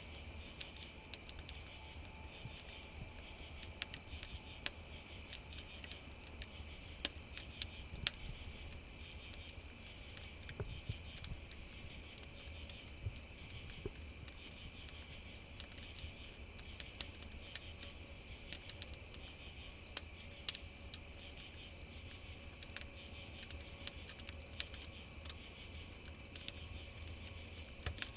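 Steady chorus of crickets, with a campfire crackling over it in scattered sharp pops, one louder pop about a third of the way through.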